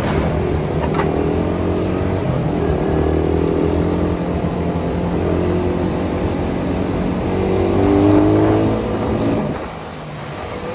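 Suzuki Satria FU 150's single-cylinder engine running through an aftermarket Thai-made racing exhaust, its note climbing in pitch under throttle to a peak about eight seconds in, then dropping away briefly near the end as the throttle closes.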